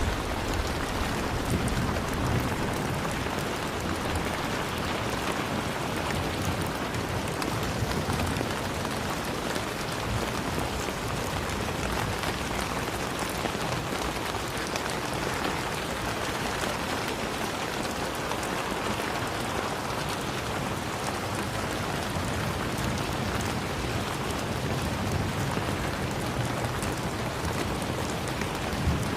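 Steady rain falling: an even hiss of many drops, unchanging in level.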